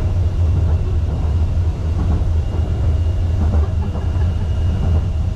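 Wuppertal Schwebebahn suspended monorail car running, heard from inside the cabin as a steady low rumble. A faint, steady high whine comes in about halfway through.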